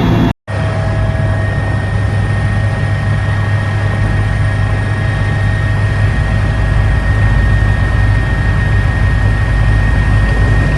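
Steady, loud engine drone with a low hum and a constant high whine, cut off completely for a moment about half a second in.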